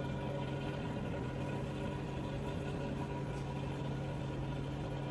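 Steady low mechanical hum with a constant droning tone and an even background rush, unchanging throughout.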